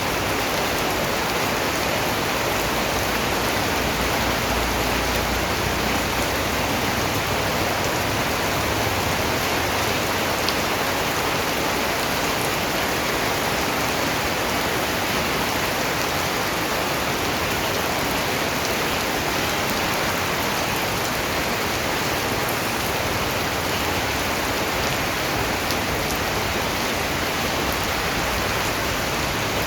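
Steady rain falling and pattering on a surface, an even hiss with a few faint drop clicks.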